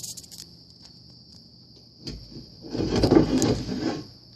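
Insects trilling steadily at a high pitch. About two seconds in, a loud, muffled rumbling noise lasts about two seconds.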